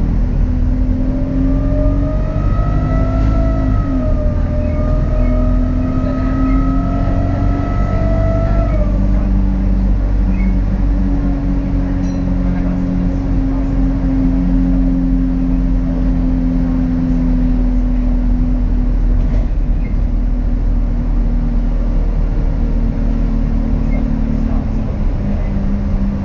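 Alexander Dennis Enviro200 bus's diesel engine running steadily under way, with a weird turbo whistle over it for the first nine seconds or so that rises slightly, holds, then drops away. After that the engine's steady drone goes on alone.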